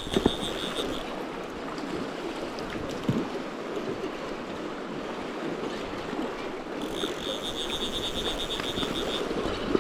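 Fast-flowing river water rushing steadily, with a few faint knocks, one near the start and one about three seconds in.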